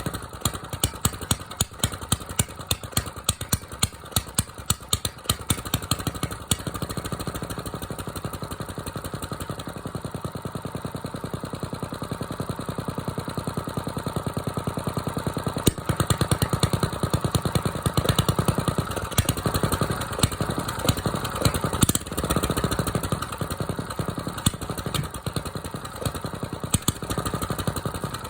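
Diesel engine running shortly after a cold start, its firing pulses loud and uneven for the first several seconds, then settling into a steadier run that grows a little louder about halfway through.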